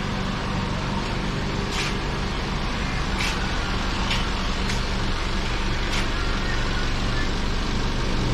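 Steady running of a motor vehicle, with engine hum and road noise, broken by a handful of short sharp clicks.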